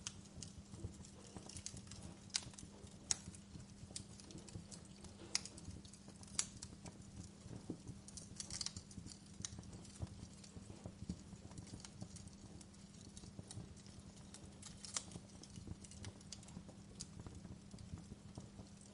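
Wood fire crackling: irregular sharp pops and snaps, a few louder ones standing out, over a steady low rumble.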